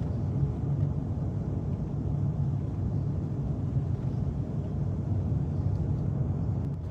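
A vehicle running, a steady low rumble.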